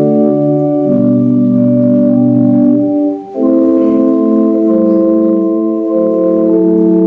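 Organ playing slow, sustained chords, with a brief break between chords about three seconds in.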